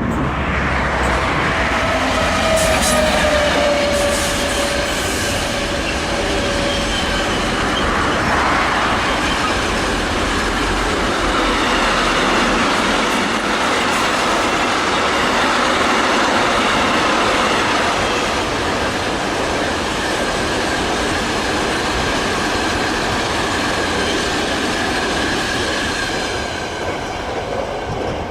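Rail vehicle running by: continuous loud rumble with wheel squeal, thin held tones riding on top, one sliding slightly down in the first few seconds.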